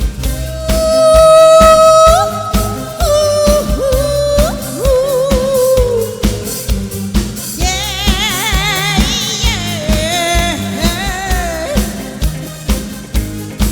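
Live pop band playing a steady drum beat while a singer holds a long wordless note, then sings gliding, wavering runs with vibrato.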